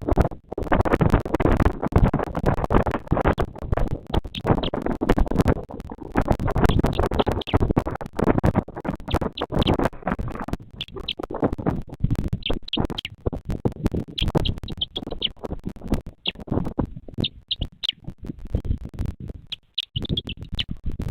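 Gusting wind buffeting the nest camera's microphone, a rough noise that swells and drops irregularly. Short high chirps come in small clusters through the second half.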